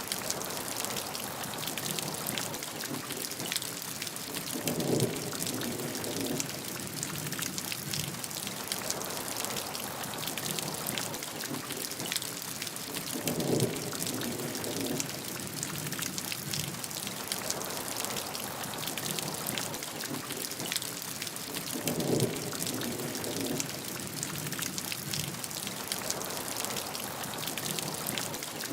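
Steady rainfall, a dense patter of drops hitting a surface. A short, lower rumble comes three times, about every eight and a half seconds.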